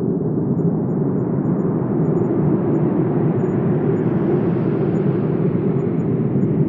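Steady wind: a low rushing noise that swells into a gust about halfway through and then eases off.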